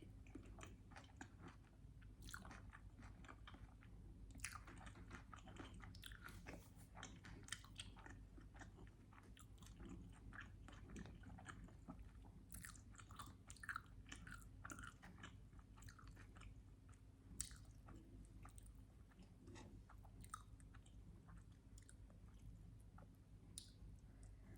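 Close-miked wet chewing and biting of a syrup-soaked sandwich: irregular sticky smacks and mouth clicks, fairly quiet, over a low steady hum.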